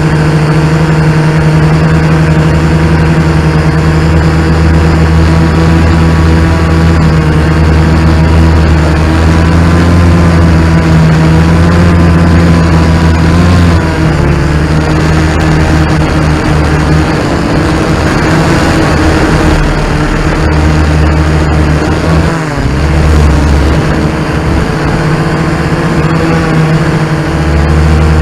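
Quadcopter drone's propellers and motors buzzing loudly and steadily, the pitch wavering and shifting as the drone manoeuvres, with a brief dip a little past two-thirds of the way through.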